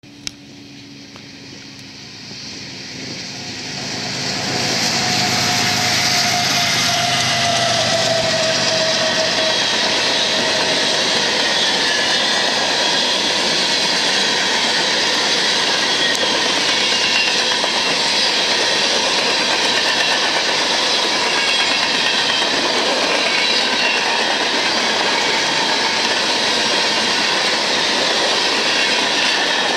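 BNSF diesel locomotives at the head of an empty coal train approach at speed, growing steadily louder over the first five seconds. They pass, and a steady rolling rumble and clatter of empty coal hopper cars going by on the rails follows.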